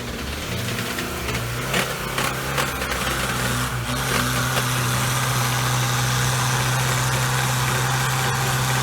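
Off-road vehicle's engine held at steady, raised revs, as when pushing through mud. A few sharp knocks sound around two to four seconds in.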